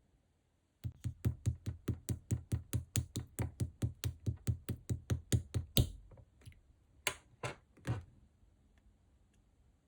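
Green slime being pressed and squished rhythmically, about five wet clicky squishes a second for some five seconds, then three slower, longer squishes.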